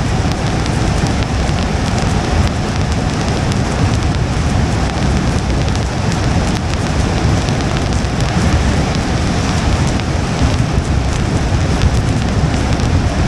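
Steady rain on a moving car with tyres on wet road: a constant hiss of rain and spray over a low road rumble, with faint ticks of drops.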